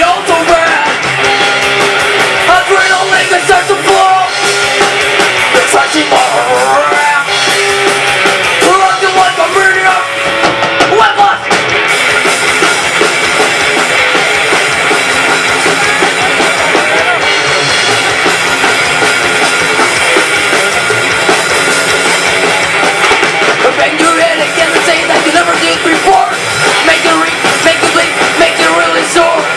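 Student rock band playing live: drum kit and guitars in a continuous rock song.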